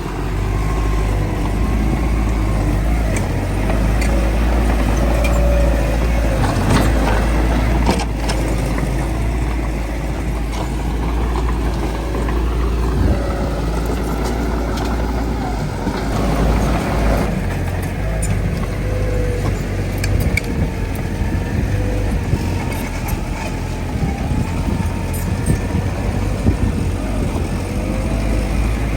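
Heavy diesel earthmoving machinery running steadily: a constant low engine rumble with a wavering mid-pitched whine and scattered short clanks.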